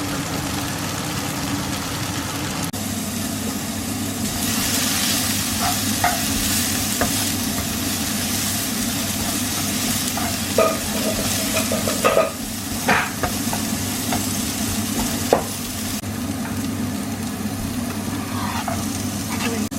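Food sizzling in a hot pan as it is stirred, with several sharp knocks of the utensil against the pan about halfway through, over a steady low hum.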